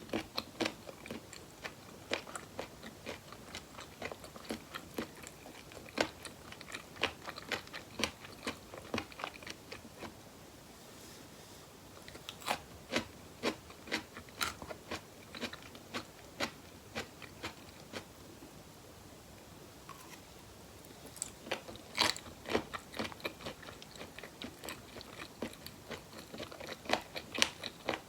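Close-miked eating: a person biting and chewing food in quick strings of sharp mouth clicks and smacks, with short pauses about ten seconds in and again near twenty seconds.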